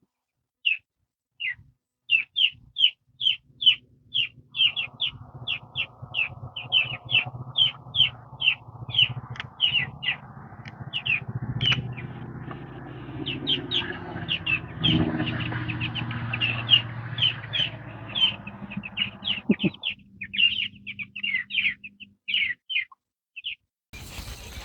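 Young chickens peeping: a steady string of short, high, falling peeps, about two to three a second. From about four seconds in, a low steady hum runs underneath and stops at about twenty seconds.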